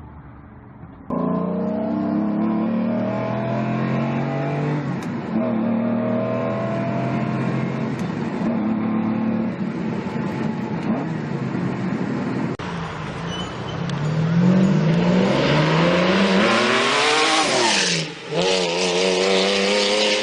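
A sports car engine runs loud, its pitch moving in steps, then revs rise hard with growing rushing noise. Near the end the sound briefly drops, as at a gear change, before picking up again.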